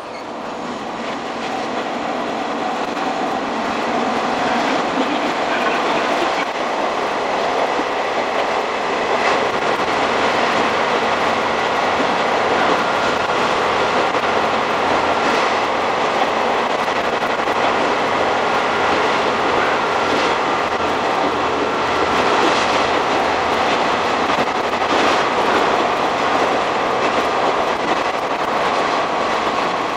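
Diesel railcar running along the track, heard from inside the cab with the recording played backwards and sped up. It is a steady rush of engine and wheel noise that grows louder over the first few seconds and then holds even.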